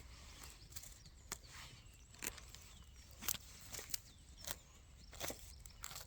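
Footsteps on dry forest litter: irregular crunches and snaps of leaves and twigs, a little under two a second.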